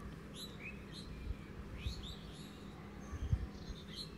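Small birds chirping: a string of short, falling chirps. Underneath are a few soft low thumps, the loudest about three seconds in, and a faint steady hum.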